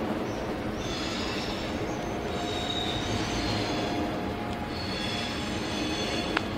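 Freight train of covered hopper wagons hauled by a Class 189 electric locomotive rolling past: a steady rumble of wheels on rail with high-pitched wheel squeal, and a single sharp tick near the end.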